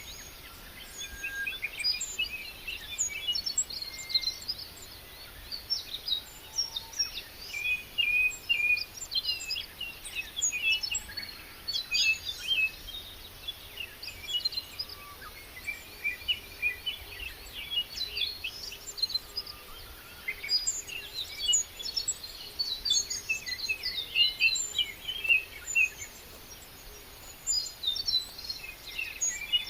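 Many small birds chirping and singing at once, a busy chorus of short, high, overlapping calls and trills that never stops.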